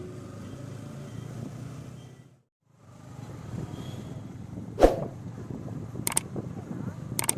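Motorcycle on the move: a steady low engine and road rumble that drops out for a moment about two and a half seconds in, then resumes. A sharp knock comes near five seconds in, and a few clicks near the end.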